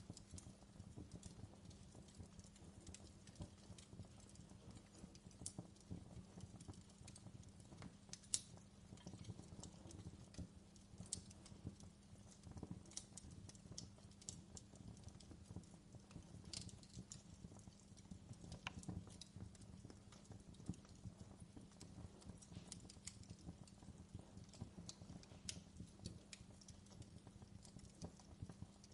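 Wood fire crackling faintly, with irregular small pops and snaps over a low rumble and a steady low hum.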